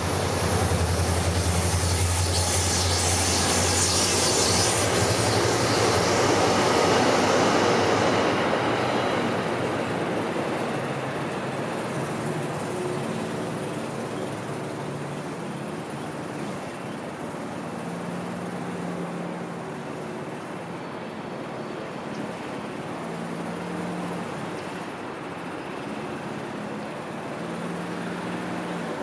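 A vehicle passing close by: a loud rumble and hiss that swells over the first eight seconds, then dies down to a fainter, steady background rumble.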